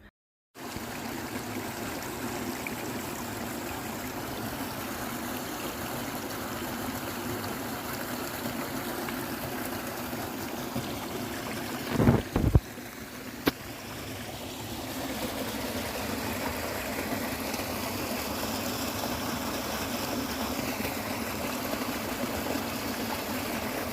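A stream running steadily, with a couple of low thuds about halfway through and a sharp click just after.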